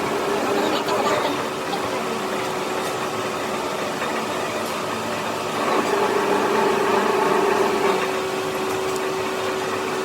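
A workshop machine running with a steady hum and a constant tone, a little louder for a couple of seconds past the middle.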